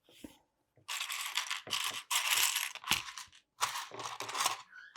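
Loose plastic LEGO bricks clattering as a hand rummages and sifts through them, in three bouts of about a second each.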